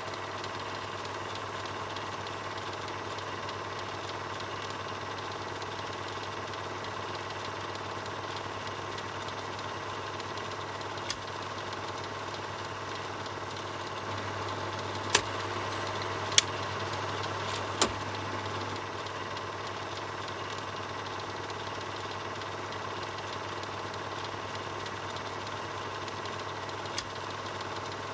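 Film projector running steadily: a continuous mechanical whir over a low hum, broken by a few sharp clicks, three of them close together just past the middle.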